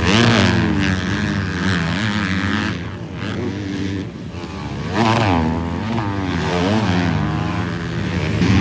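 Several 250-class motocross bikes racing, engines revving up and falling back through the corners with overlapping pitches, sharp rises near the start and about five seconds in.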